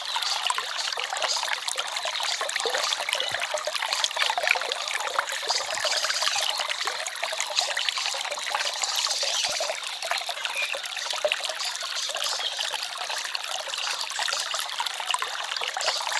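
Small forest stream trickling and babbling over stones: a steady rush of water full of small splashes and gurgles.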